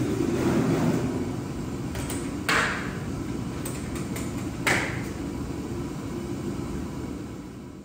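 Two sharp metallic clanks about two seconds apart, each ringing briefly, from loading powder-coated parts into a curing oven, over a steady low rumble.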